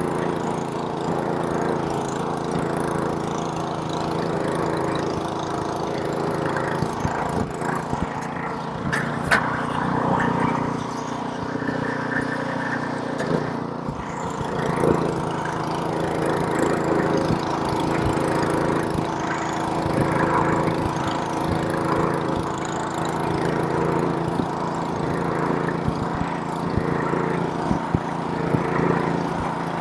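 Small-engine gas snowblower running steadily under load as it clears snow, with the engine's pitch sagging slightly for a few seconds midway and a few sharp knocks over the drone.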